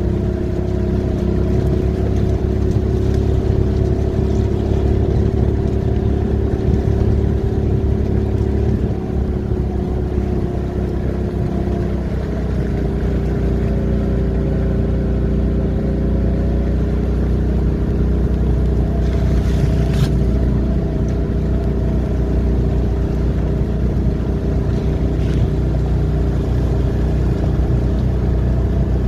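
An engine running steadily, its pitch dropping slightly about twelve seconds in, with one sharp click about twenty seconds in.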